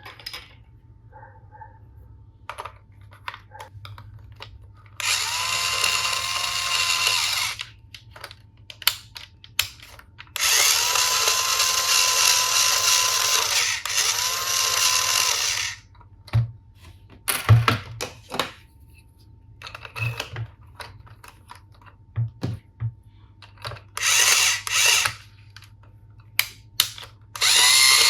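Toy battery-powered electric screwdriver, its small motor whirring with a steady whine in several bursts of one to five seconds. Sharp plastic clicks and taps come between the bursts.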